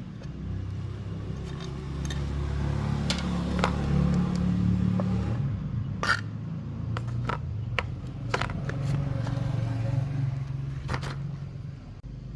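A motor running with a low hum that shifts in pitch and level a few times, with scattered sharp clicks.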